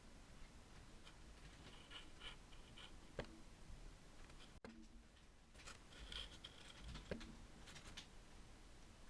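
Faint, light scratching and small ticks of hand craft work at a desk, over quiet room tone. The sound cuts out briefly about halfway through.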